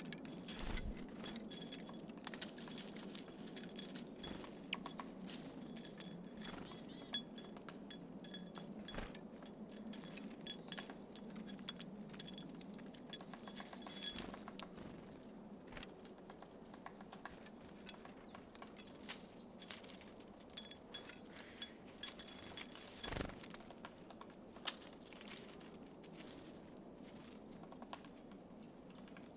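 Small birds at a feeder: scattered sharp clicks and taps of beaks and feet on sunflower seeds and the feeder, over a low steady background hum.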